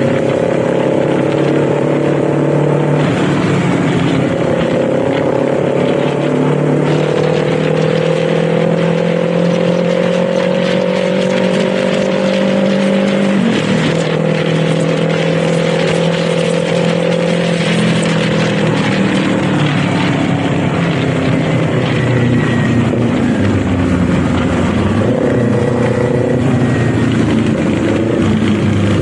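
Kawasaki Z400 parallel-twin engine pulling under load while riding, its pitch climbing steadily through the gears with shifts about 3 and 13 seconds in. The engine eases off and drops in pitch in the second half, then picks up again near the end, over steady wind rush.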